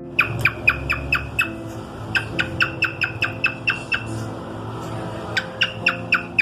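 Cockatiel giving rapid, sharp chirps, about four to five a second, in three runs with short pauses between.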